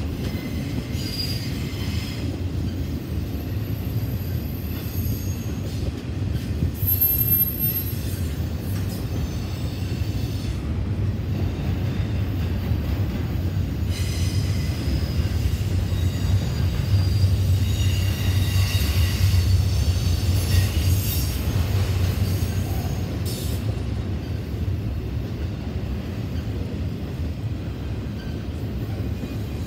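Intermodal freight train rolling past: a steady low rumble of wheels on rail, with high-pitched wheel squeal that comes and goes, strongest about halfway through.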